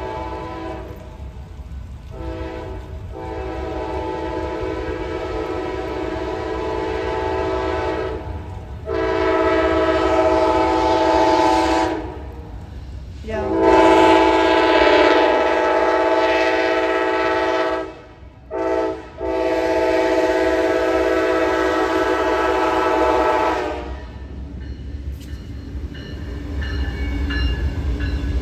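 Amtrak passenger locomotive's multi-chime air horn sounding a series of long blasts with short breaks between them, then stopping, leaving the low rumble of the train rolling past.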